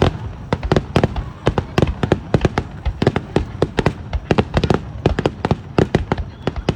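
Fireworks display: a rapid barrage of shell bursts, several sharp bangs a second with crackling in between.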